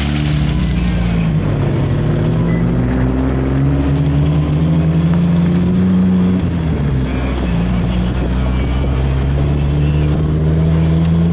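A 1992 Jeep Wrangler YJ's engine pulling under load. Its pitch climbs for several seconds, drops about six and a half seconds in, then climbs again slowly.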